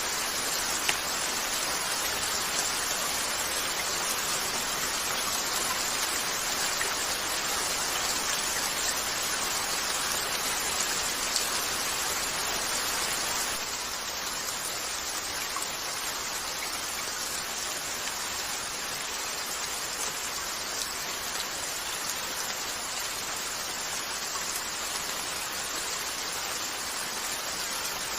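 Steady rain falling on a window, with a few faint sharp clicks. It softens slightly about halfway through.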